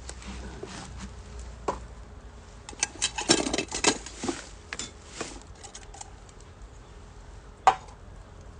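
Camp cookware and utensils clinking and clattering: a cluster of quick light taps and scrapes in the middle, then one sharper knock near the end.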